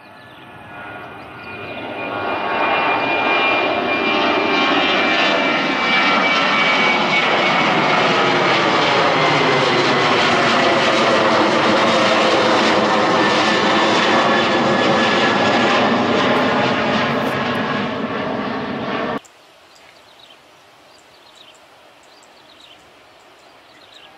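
Jet airliner's engines running loud as the plane passes close by, swelling in over the first few seconds and holding a steady roaring rush with a slowly shifting whine. It cuts off suddenly about nineteen seconds in.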